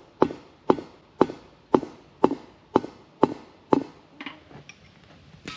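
A series of hard, evenly spaced striking blows, about two a second, each with a short ring-out. They give way to a couple of lighter knocks about four seconds in.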